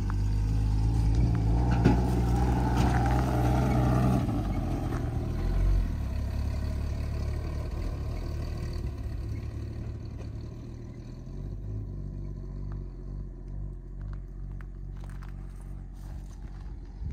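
Old Holden ute's engine running, loudest in the first few seconds with a rougher surge about two to four seconds in, then fading steadily as the ute moves off into the distance.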